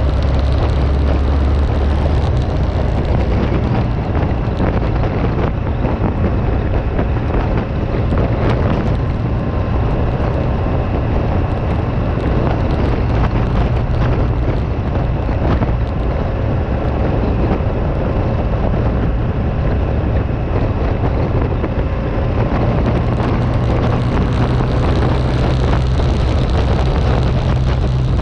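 Steady wind rush on the microphone over a motorcycle engine running at an even speed, with a heavy low rumble that doesn't let up.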